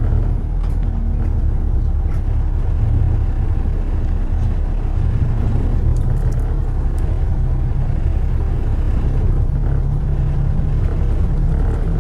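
Steady low rumble of road traffic in a city, with no voices.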